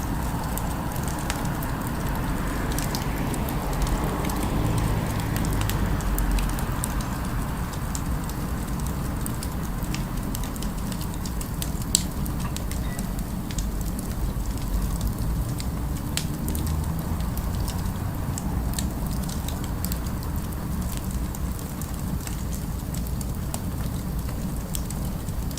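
Fireplace crackling, with scattered small pops and one sharper pop about halfway through, over a steady low city rumble.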